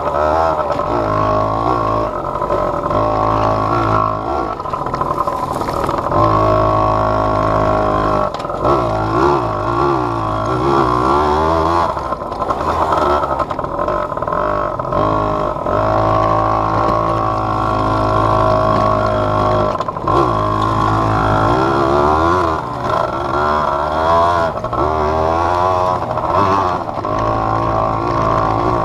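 Small off-road vehicle engine running under load as it is ridden, heard close up from the rider's chest, its revs rising and falling again and again with several brief drops.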